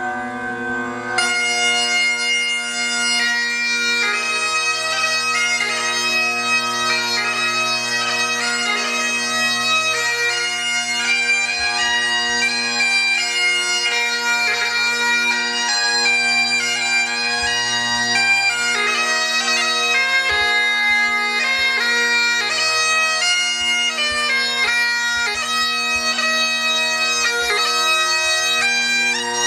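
Bagpipes playing a tune over steady drones. The drones sound first, and the chanter melody comes in about a second later.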